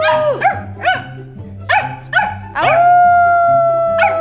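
A dog howling: a long held howl that ends just after the start, several short yips, then a second long howl about two and a half seconds in. Each howl rises quickly to one steady pitch and drops off at the end.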